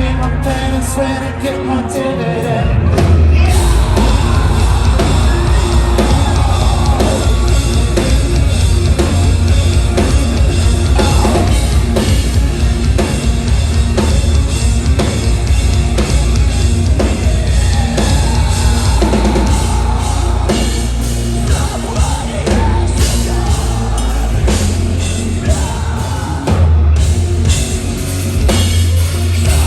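Live post-hardcore band playing loud, with distorted guitars, pounding drums and sung and screamed vocals; the full band kicks in hard about three seconds in.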